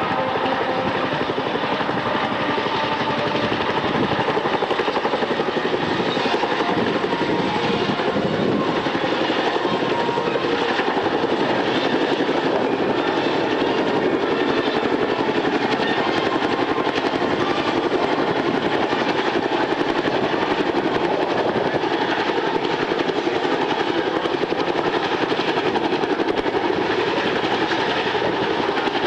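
Aircraft engine noise running steadily at a constant loudness, with no rise or fall of a passing aircraft.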